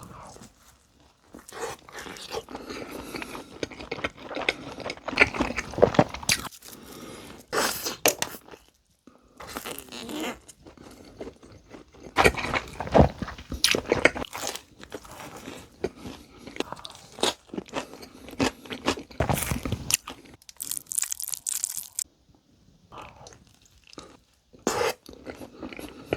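Close-miked eating of pepperoni cheese pizza: bites crunching and chewing at an uneven pace, with short pauses between mouthfuls.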